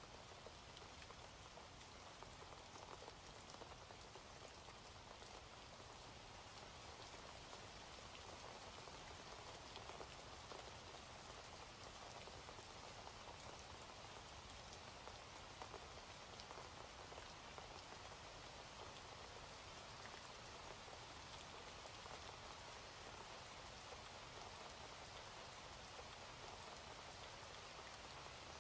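Faint, steady rain falling: an even hiss with scattered small drop ticks.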